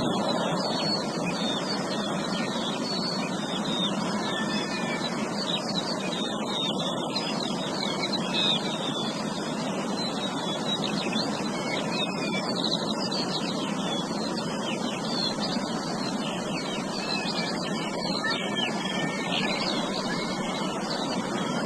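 Many small birds chirping at once, dense overlapping short chirps, over a steady rushing background noise.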